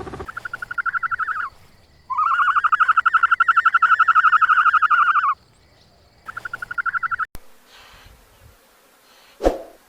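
An animal calling in a rapid pulsed trill, three times: a short trill, a long one of about three seconds, then a short one. A sharp click follows, and a low thump comes near the end.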